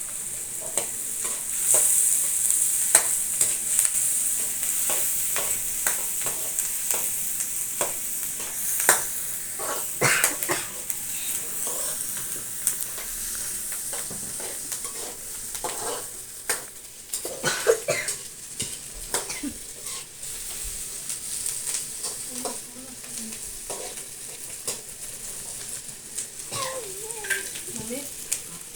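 Onions, whole spices and green chillies sizzling in hot oil in a pan, stirred continuously, with frequent sharp clicks and scrapes of the stirring utensil against the pan.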